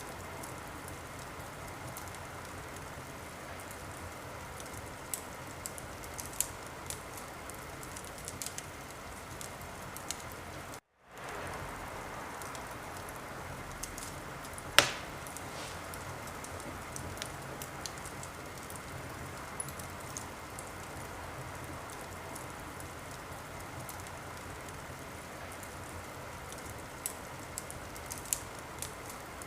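Wood fire in a fireplace crackling: a steady hiss with scattered small pops and one loud sharp pop about fifteen seconds in. The sound cuts out completely for a split second about eleven seconds in.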